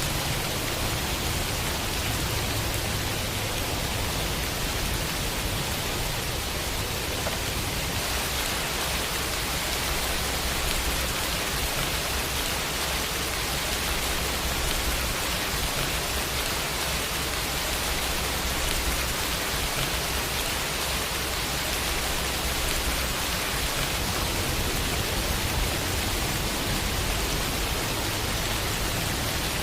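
Steady rainfall pattering on a window pane, an even hiss of many drops with a low rumble underneath.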